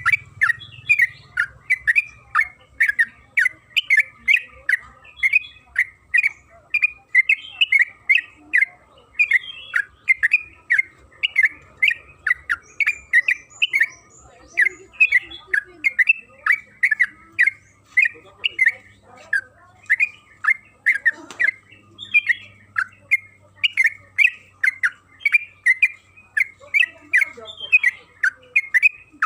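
Yellow-vented bulbul (trucukan) calling in a fast, unbroken series of short chirping notes, about three a second.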